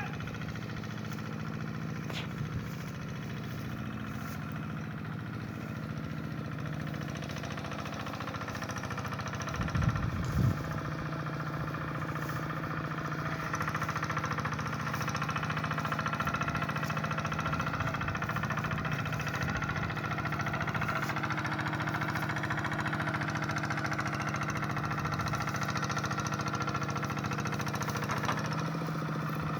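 Hand tractor engine running steadily while ploughing a rice paddy. A short cluster of louder knocks comes about ten seconds in, and the engine runs a little louder from a few seconds later.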